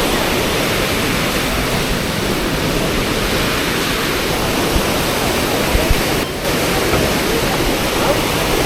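Loud, steady rushing of white water from a fast river channel where it forms a standing surf wave.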